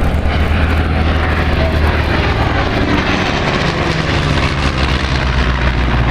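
Loud, steady drone of a piston-engine World War II warbird's propeller engine in flight, with a tone that slowly falls in pitch.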